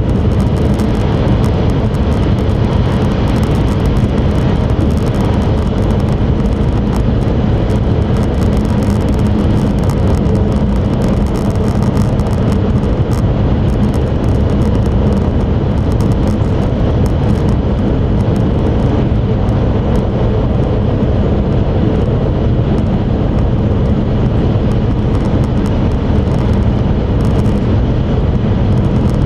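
Cabin noise of an E5 series Shinkansen running at speed: a steady, unbroken low rumble with a hum.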